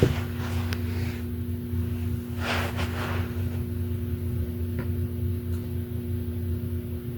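Steady low electrical hum, with two brief noisy rustles, one right at the start and one about two and a half seconds in.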